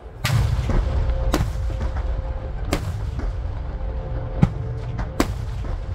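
Aerial firework shells bursting in a rapid starmine barrage: about five sharp booms, one every second or so, over a continuous low rumble of further bursts.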